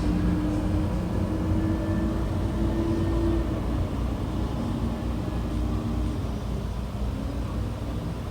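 Garbage truck's diesel engine running with a steady low rumble, with a faint held tone over it in the first few seconds.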